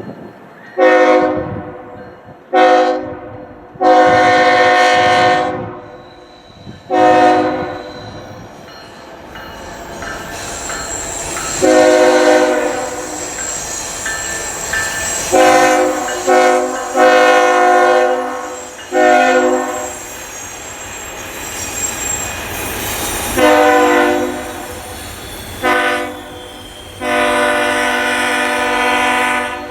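Diesel locomotive's multi-chime air horn sounding about a dozen short and long blasts in three groups, with the train's rolling rumble and a high wheel squeal between the blasts as the freight takes a curved track connection.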